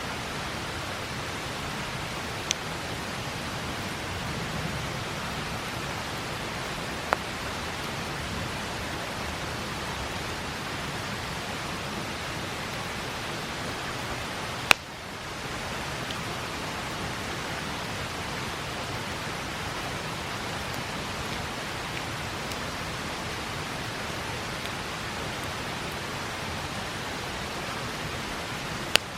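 Steady rush of river water with four sharp pops from a wood campfire, the loudest about halfway through.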